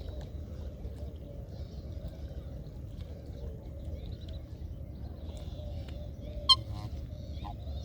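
Scattered faint bird chirps over a steady low rumble, with one short, sharp, loud sound about six and a half seconds in.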